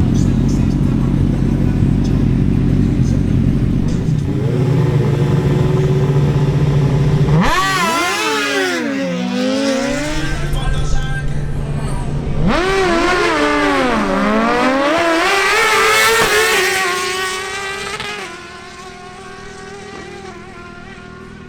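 Suzuki GSX-R1000 inline-four sportbike engines. For about seven seconds the engine holds a steady pitch. Then a hard launch: the pitch rises sharply, falling back at each upshift. A second run, also rising through the gears, begins about halfway through, peaks and fades away in the last few seconds.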